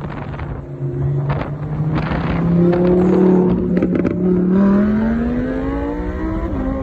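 Car engine pulling under acceleration, its pitch climbing steadily through the revs and then dropping back a little near the end.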